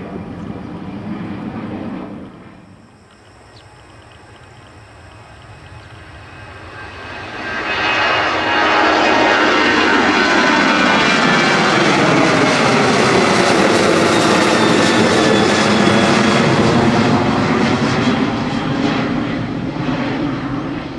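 Boeing 737 jet engines at take-off power. A loud rush cuts off about two seconds in, then builds again from about seven seconds in to a loud, steady roar with a swirling, sweeping pitch as the jet passes, fading near the end.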